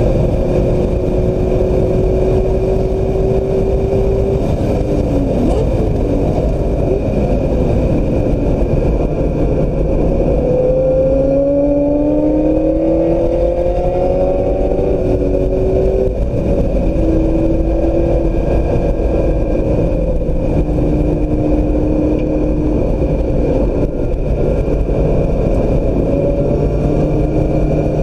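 2016 Mazda MX-5 Miata's four-cylinder engine running hard on track, its note rising and falling with acceleration and gear changes, over steady low road noise.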